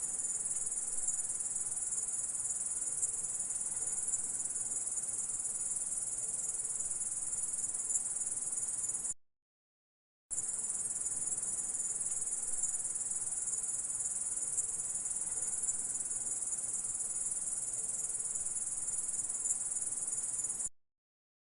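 Grasshopper stridulating: a dense, steady, high-pitched chirring. It cuts off abruptly about nine seconds in, stops for about a second, then starts again and cuts off shortly before the end.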